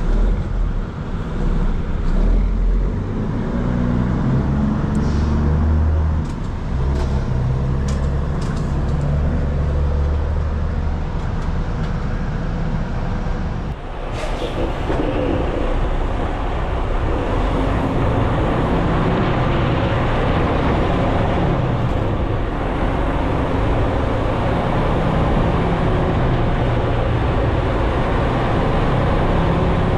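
Semi truck's diesel engine running, a deep rumble whose pitch shifts during the first half, giving way about halfway through to a broader, steadier rumble with road noise.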